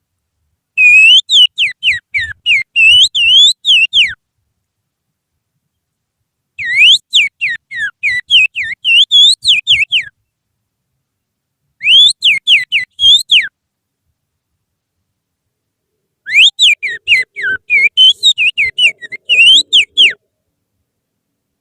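Person finger-whistling with the little finger, imitating the song of an Oriental magpie-robin (kacer): four phrases of quick, sharply rising and falling whistled notes, separated by pauses of a couple of seconds.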